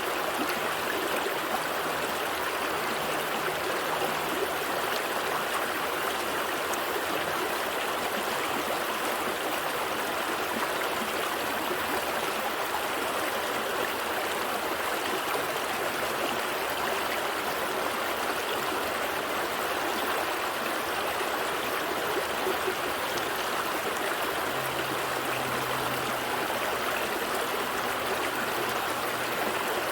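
Gentle stream flowing steadily, an even, unbroken rush and babble of water.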